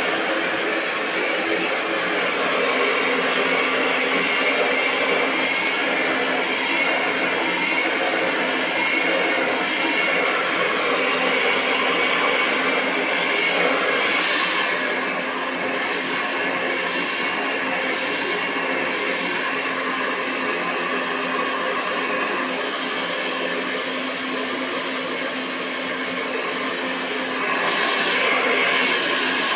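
Hair dryer running continuously, a steady rush of air with a constant motor whine. It eases off a little about halfway through and swells again near the end.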